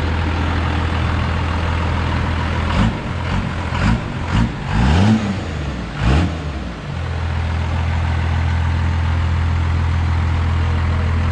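A 1991 truck's 12-valve Cummins diesel idling steadily. About three seconds in it is revved in a quick string of about five blips, then settles back to idle.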